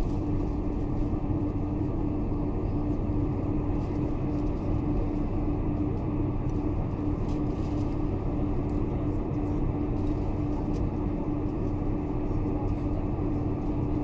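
Steady cabin drone inside a Boeing 747-400 taxiing before takeoff: engine and air-conditioning noise with a constant low hum.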